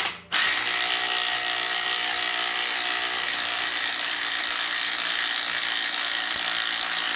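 Power tool running steadily as it drives the steering wheel puller's centre bolt, drawing the harmonic balancer off the crankshaft, after a brief burst and a short pause at the start.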